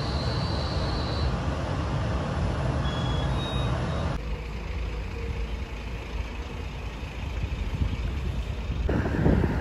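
Train passing close by with a steady low rumble. The sound changes abruptly about four seconds in and again near the end.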